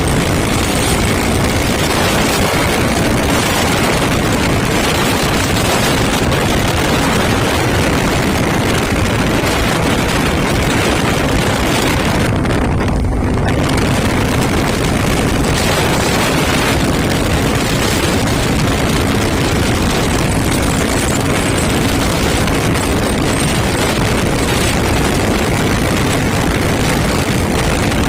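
Loud, steady road and wind noise from a moving truck, with a faint, even engine hum underneath.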